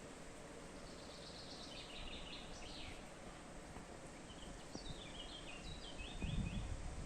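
A songbird singing two short phrases of quick, repeated high chirping notes over a steady background hiss, with a low rumble near the end.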